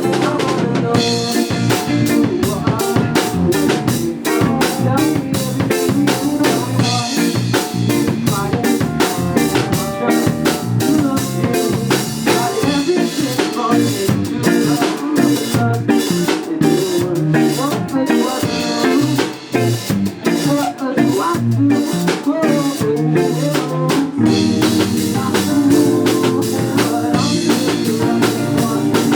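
Live band playing an instrumental passage, with the drum kit's snare and rimshot strokes keeping a steady beat under the other instruments. It briefly drops out about two-thirds of the way through, then comes back in full.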